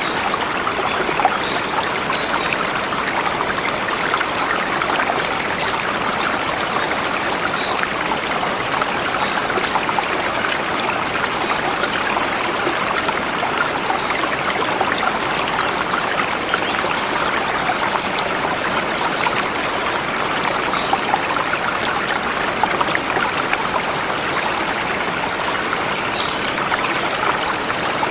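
Forest river flowing over rocks: a steady rushing and babbling of water with no pauses.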